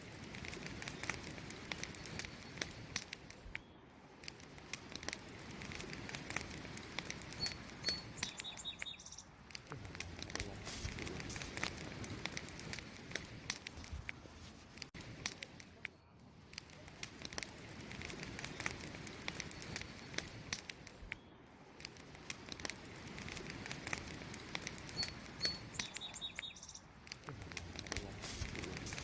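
Wood fire crackling with a steady run of sharp pops. A small bird gives a few short, high chirps twice, about eight seconds in and again near the end.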